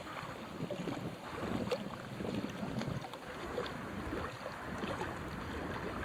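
Strong gusty wind buffeting the microphone, with irregular small splashes and lapping of lake water.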